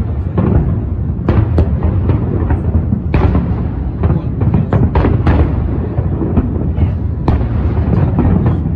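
Fireworks display: many shell bursts booming over one another into a continuous rumble, with sharper bangs standing out several times.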